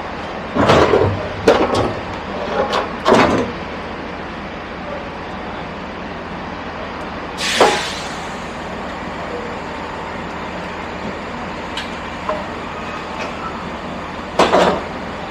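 A train runs steadily under a series of sharp metal clunks and clatters. There is a cluster in the first few seconds, another about halfway through, and one near the end, as a portable boarding ramp is handled at the train door.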